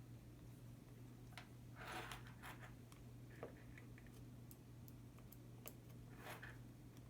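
Faint scattered clicks and short scrapes of a very small Phillips screwdriver working a screw out of a plastic remote fob, over a steady low hum.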